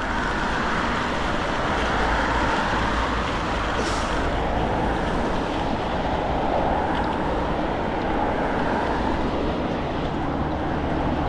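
Steady road traffic: cars and other vehicles passing in a continuous wash of tyre and engine noise, swelling and easing as they go by.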